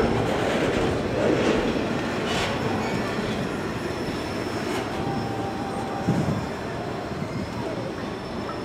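Passenger or freight train rolling past on the station tracks: a steady rail rumble with a few clicks and a faint wheel squeal, slowly fading as it moves away.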